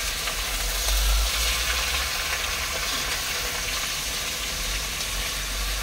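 Chicken and onions frying in mustard oil in a cooking pot, a steady sizzle, over a low steady rumble.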